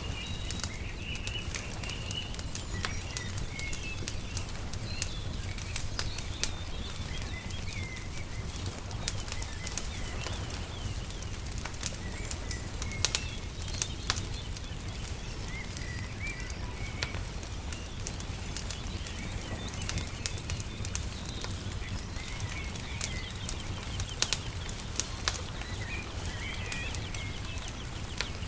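Wood fire crackling, with sharp pops scattered through, over a steady low rumble. Small birds chirp now and then.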